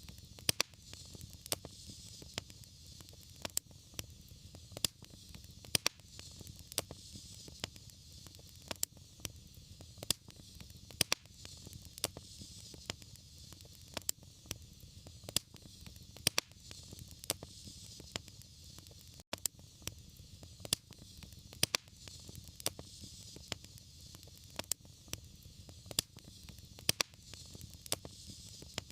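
Fireplace fire crackling, with frequent sharp pops over a steady hiss and a low rumble. A split-second dropout cuts the sound about two-thirds of the way through.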